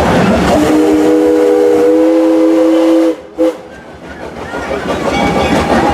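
Steam locomotive's chime whistle: one long blast of a steady three-note chord lasting about two and a half seconds, then a short toot. Train running noise is under it and comes back up near the end.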